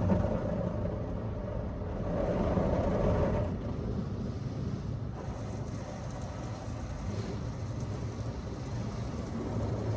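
Mark VII ChoiceWash XT rollover car wash running its soft-touch cycle with a low steady rumble. A louder stretch between about two and three and a half seconds in.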